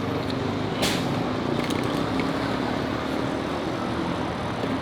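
Steady road traffic noise, with one short click just under a second in.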